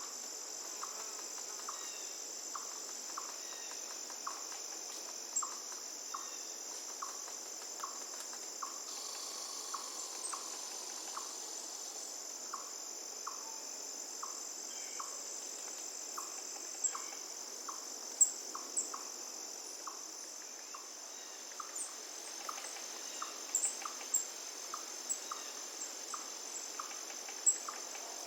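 Forest ambience led by a steady, high-pitched insect drone, with a bird repeating a short note just under twice a second. Sharp, high chips join in the second half.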